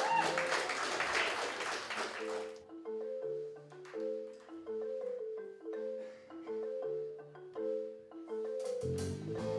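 Live band starting a song. A couple of seconds of applause die away, then a single instrument plays a repeating melodic figure in short, evenly spaced notes. Near the end the bass and drums come in.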